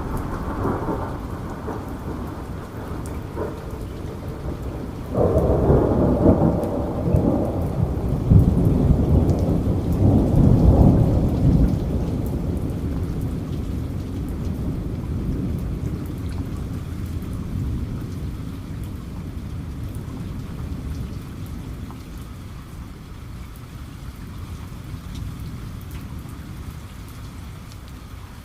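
Steady heavy rainfall with a thunderclap about five seconds in that breaks suddenly, rumbles loudly for several seconds and then slowly dies away under the rain.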